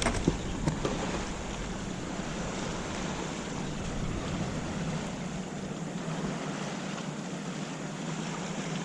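Steady wind and water noise out on the river, with a few small knocks in the first second.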